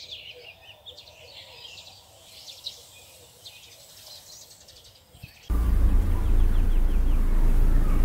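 Small birds chirping and twittering in quick, repeated calls. About five and a half seconds in, a loud, steady low rumble cuts in suddenly and drowns them out.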